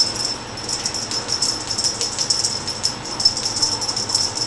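Domestic cat panting and wheezing with its mouth open, out of breath after a run of big jumps. A light, fast jingling rattle runs throughout.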